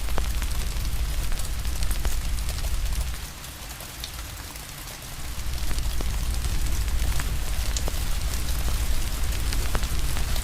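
Steady rain hiss with a wood fire crackling, sharp pops scattered through it over a deep low rumble. The rumble drops away for about two seconds a little after three seconds in, then returns.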